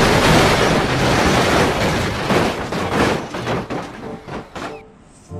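A loud crashing noise that dies away over about four seconds into scattered clicks and knocks.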